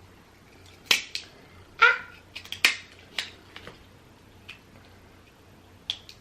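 Seafood boil shells being cracked and peeled while eating, with wet eating sounds. About eight sharp cracks and snaps come in an uneven run, the loudest about a second and two seconds in, then two more near the end.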